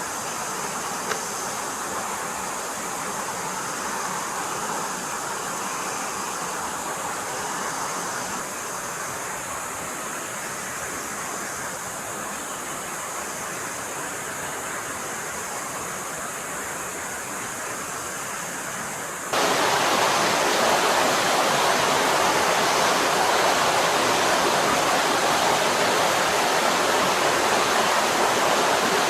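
Stream water flowing over rocks, a steady rushing. About two-thirds of the way through it turns suddenly louder and brighter and stays that way.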